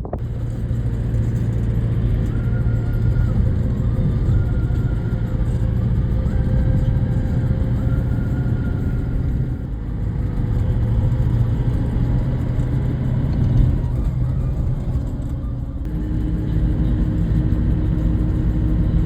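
Steady running of a motor vehicle, a low engine and road rumble, whose sound shifts about sixteen seconds in.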